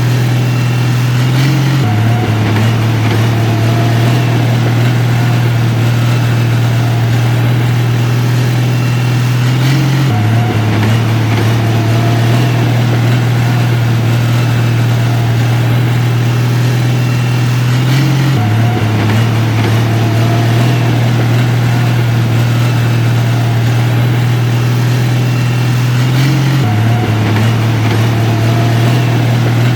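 Heavy construction machine engine running steadily with a strong low drone, its pitch stepping down slightly about every eight seconds.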